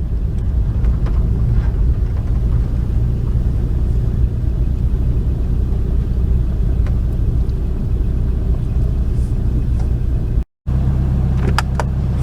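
A car running with a steady low rumble. It breaks off for a moment about ten seconds in and comes back as a steadier, even hum.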